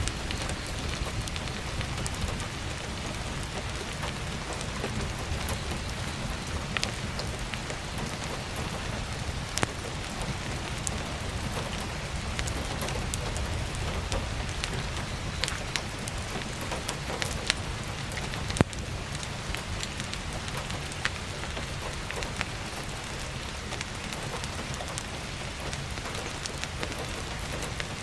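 Steady heavy rain with scattered sharp crackles and pops from burning firewood, the loudest pop coming about two-thirds of the way through.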